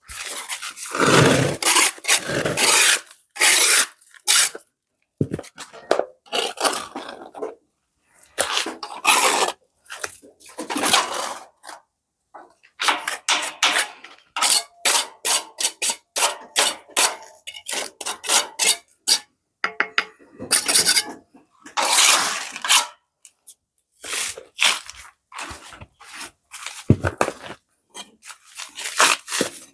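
Repeated noisy scraping and rubbing strokes from hand work, irregular, with a run of quick short strokes in the middle.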